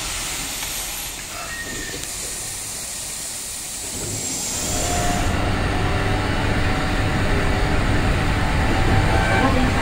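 A red Keikyu commuter train at a station platform, then, from about five seconds in, louder running noise from inside a moving Keikyu train: a low rolling noise with a few steady humming tones.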